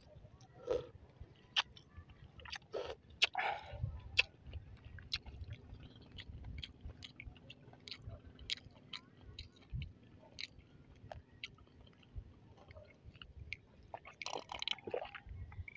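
Close-miked chewing of crispy breaded, deep-fried balut, with many small sharp clicks and crackles from the mouth. Near the end come a few louder sounds of gulping from a glass mug of cola.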